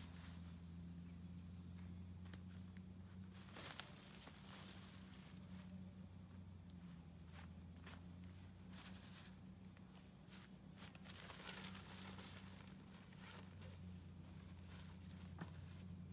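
Near silence: a faint steady low hum with scattered small clicks and crackles.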